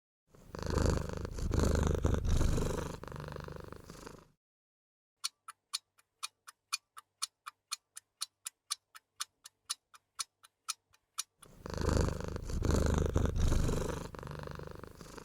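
A cat purring for about four seconds, then a clock ticking about four to five times a second for six seconds, then the purring again.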